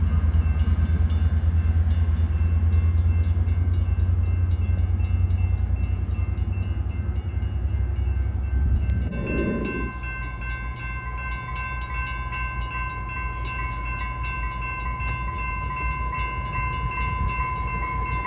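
Trinity Railway Express commuter train running, with a steady low diesel rumble. About halfway through, it gives way to a grade-crossing warning bell ringing steadily with a fast, even beat as the train approaches.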